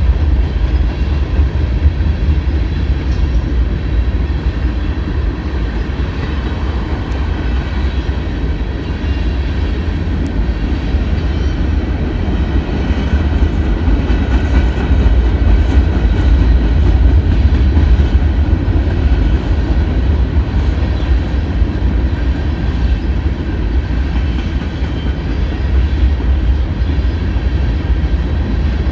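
CSX freight train rolling slowly by, a steady heavy rumble of wheels on the rails, with faint high steady tones over it.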